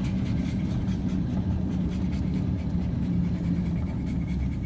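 Car driving at steady speed: a constant low engine and road rumble heard from inside the cabin.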